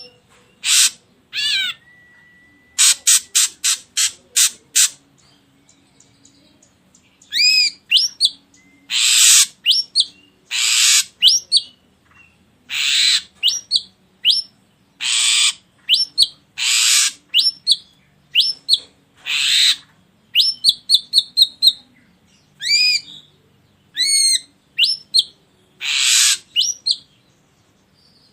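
Ashy drongo song: harsh, rasping notes alternating with curved whistled notes and quick runs of short chips, repeated again and again. This is a lure recording meant to set other birds singing.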